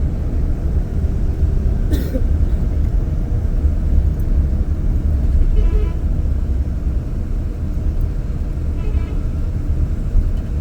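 Moving road vehicle, with heavy low wind rumble buffeting the microphone. A single click comes about two seconds in.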